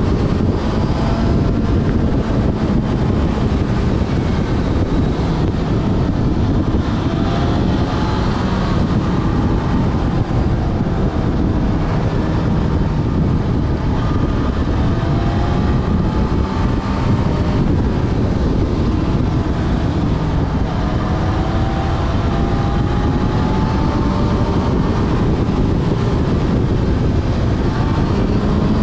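Yamaha Fazer FZ6S's inline-four engine running while riding, its note climbing several times as it accelerates, under heavy wind noise on the microphone.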